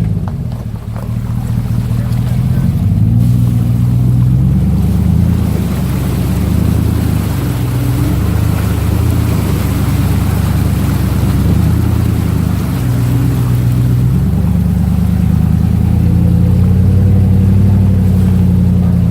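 Truck engine running under load through a creek crossing, its pitch stepping up and down with the throttle. Water rushing and splashing around it grows in from about five seconds in.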